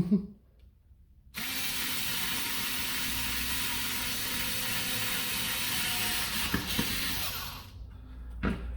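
Electric screwdriver running steadily for about six seconds, driving a screw. It starts a little over a second in, with a couple of clicks near the end, and stops shortly before the end.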